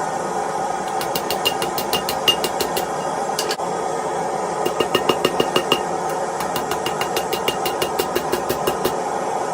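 Blacksmith's hammer striking hot steel on an anvil in quick runs of blows, each with a short high ring, while a steady mechanical hum runs underneath.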